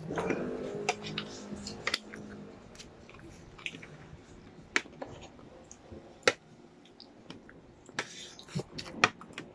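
Close-up wet chewing and lip smacking from eating chicken feet, with scattered sharp clicks and smacks over a quiet background.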